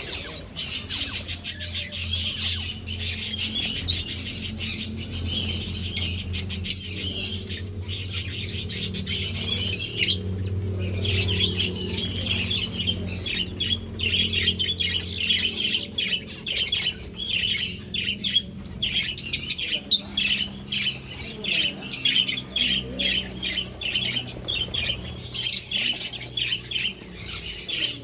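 A colony of aviary finches calling continuously, many short chirps overlapping, over a steady low hum.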